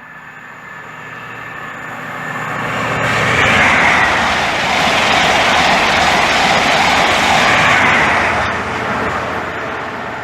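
Class 43 HST (InterCity 125) passing through the station without stopping, with diesel power cars at each end. The wheel, rail and engine noise builds from about two seconds in, stays loud for several seconds, then fades as the train goes by.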